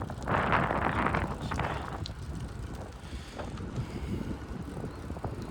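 Wind buffeting the microphone: a strong gust in the first two seconds, then a steady low rumble with a few faint clicks.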